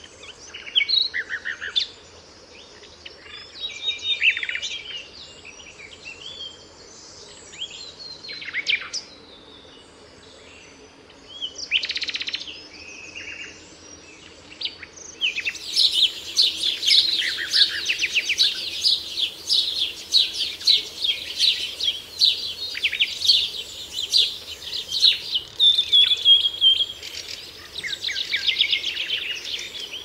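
Birds calling and singing: scattered chirps and short calls for the first half, then from about halfway a denser run of fast, high trilling songs.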